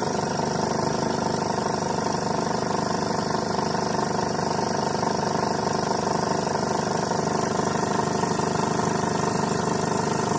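2013 Chevrolet Colorado engine running with its AC compressor engaged, a steady mechanical running noise with a set of steady tones that does not change. This is the compressor noise being diagnosed, which the mechanic puts down to high-side pressure over 200 psi from an overcharge of refrigerant.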